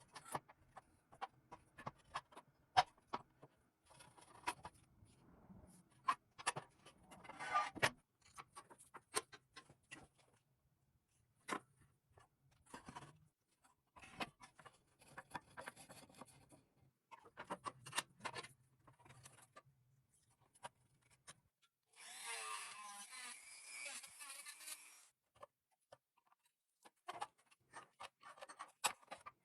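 Hand tools working on a toy truck: scattered clicks, taps and light scraping. About two-thirds of the way through, a small power tool runs for about three seconds.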